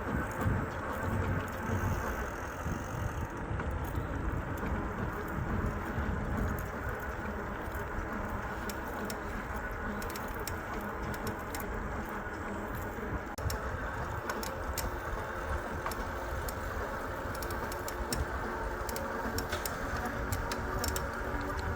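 Steady riding noise of an e-bike rolling along a trail: wind rumble and tyre noise, with light rattling and clicking throughout.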